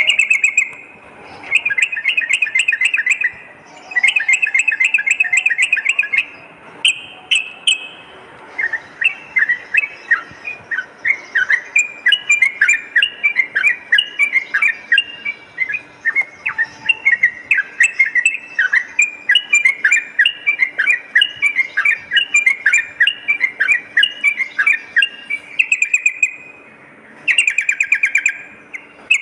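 Yellow-vented bulbul (trucukan) singing loudly: short bursts of very rapid chattering trills, then a long run of quick, bright, bubbling notes at a steady pace, and another rapid burst near the end.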